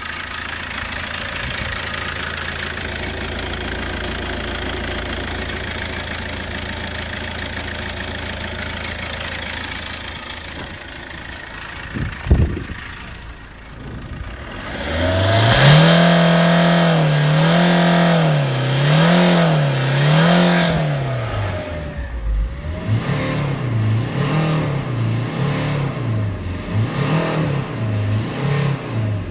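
Fiat 1.3 JTD four-cylinder turbodiesel engine running, steady for the first part. After a single sharp knock it is revved repeatedly, its pitch rising and falling in a series of blips, slower at first and quicker near the end.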